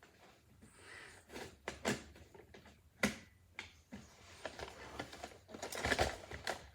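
Hard plastic clicks and knocks of a Roomba's dustbin and filter parts being pushed and worked into place: a few separate clicks, then a rattling cluster of knocks about six seconds in.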